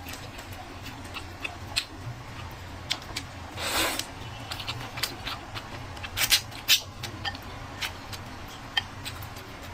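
Close-miked eating sounds: irregular clicks and smacks of chewing, with a longer noisy burst about four seconds in, over a steady low hum.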